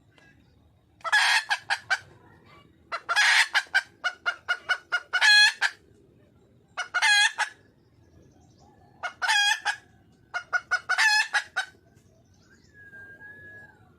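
Wild hen (red junglefowl) calling for a mate: six bouts of rapid, repeated loud cackling notes, each about a second long, with short pauses between.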